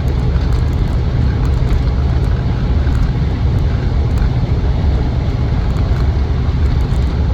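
In-cabin drone of a Land Rover Defender 90 cruising at about 60 mph: steady low rumble of the 4-litre V8 under light load with road and wind noise, and no knocks or clunks from the drivetrain.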